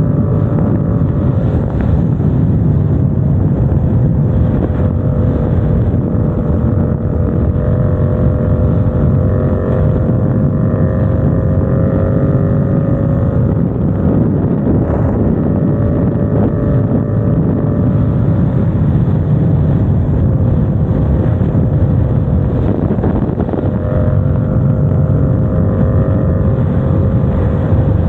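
Motorcycle engine running steadily under way, its note drifting slightly up and down with the throttle, with wind rushing over the microphone.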